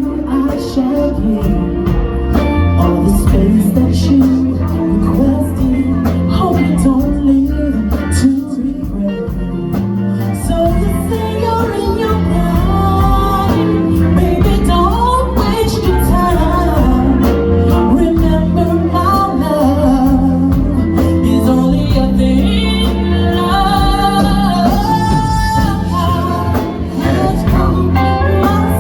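Live band playing a soul/blues song, with steady bass and drums and a woman singing over it.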